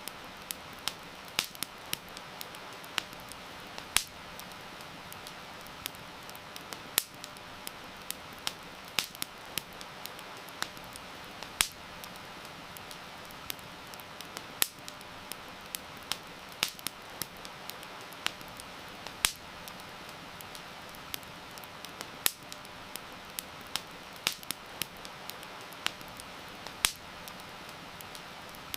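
Campfire crackling with sharp, irregular pops, several a second, over a steady hiss of heavy rain.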